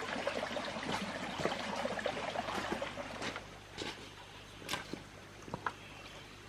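Running water trickling, which falls off about three seconds in and leaves a few separate drips or ticks.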